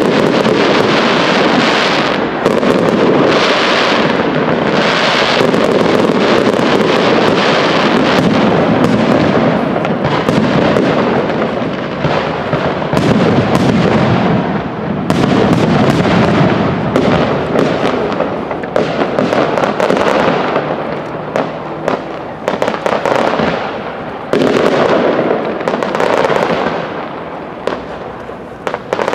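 Fireworks display: a dense, continuous barrage of bursts, bangs and crackling, easing off a little toward the end.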